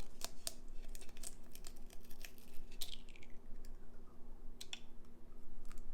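Irregular light clicks and taps of an egg being tapped, cracked and worked open over a mixing bowl, with a brief falling squeak about three seconds in. A faint steady hum runs underneath.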